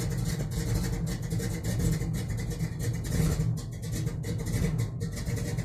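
Engine with a freshly rebuilt carburetor, running steadily while still cold, shortly after a cold start following more than a week of sitting.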